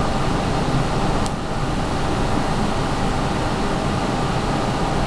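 Steady, loud hum and hiss of running air conditioning, with one faint click about a second in.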